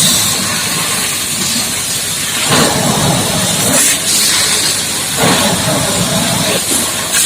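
High-pressure water jet from a booster-pump hose spraying against a mining dump truck: a steady hissing spray whose tone shifts a few times.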